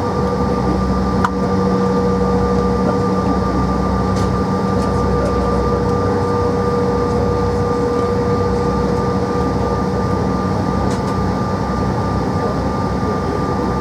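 Steady cabin noise of a Bombardier CRJ700 on the ground, its rear-mounted General Electric CF34 turbofans running at low power with a few steady whining tones over a low rumble. A couple of faint ticks sound inside the cabin.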